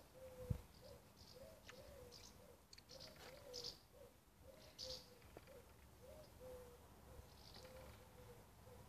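Faint birdsong: small birds chirping now and then, over a low note repeating about three times a second. A single soft thump comes about half a second in.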